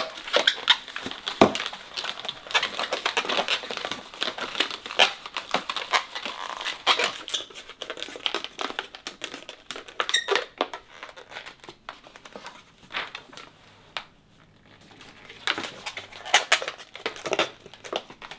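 Latex modelling balloons being twisted and handled: irregular rubbing squeaks and crinkling, with a lull about two-thirds of the way through.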